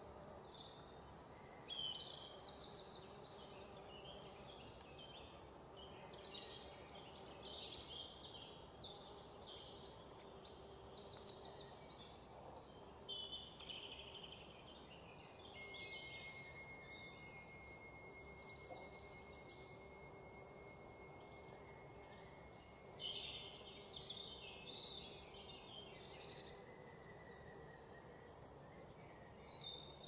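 Small birds chirping and trilling in quick, high-pitched phrases over a faint steady hiss. A thin, steady high tone is held for about ten seconds from around the middle.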